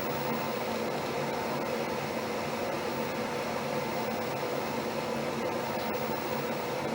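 Steady machine-like hum with hiss, unchanging throughout; no bird calls stand out.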